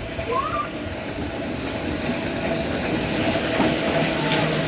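A New York City subway train running on the track, with a steady whine over the rail noise, growing louder as it approaches.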